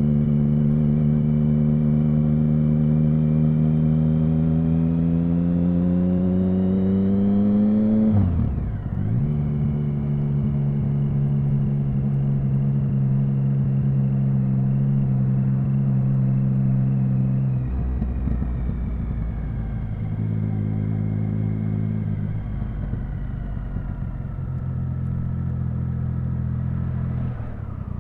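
Triumph Speed Triple 1050's inline three-cylinder engine running on the move: its note climbs steadily for about eight seconds, dips sharply, then holds a steady pitch. About two-thirds of the way through it drops to a lower, quieter note.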